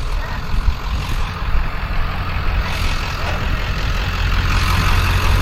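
Truck engine running with a steady low rumble, a rushing noise building over it about three seconds in and again near the end.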